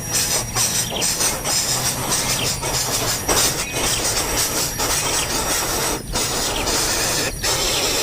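Nestling birds giving raspy, hissing begging calls almost without a pause, broken by short breaks, with faint falling chirps.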